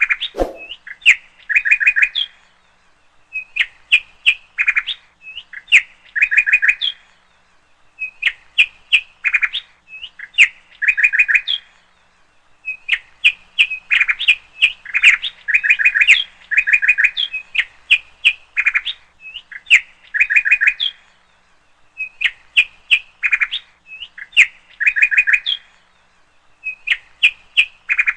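Birds chirping: groups of short, quick chirps that come again about every two seconds. There is a brief thump just after the start.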